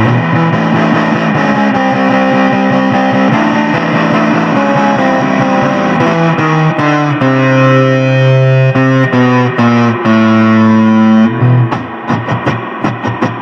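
Electric guitar solo with distortion over a backing band, playing a run of notes and then long held notes. Near the end the guitar stops and drums carry on alone.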